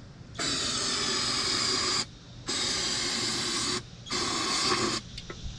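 Aerosol can spraying into an open air intake in three bursts, the first about a second and a half long and the last shortest. The spray primes a stubborn engine that will not start before it is kicked over.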